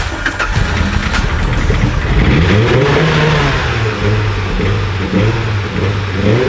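Car engine running and being revved: the pitch climbs and falls back once, then is blipped up and down several more times.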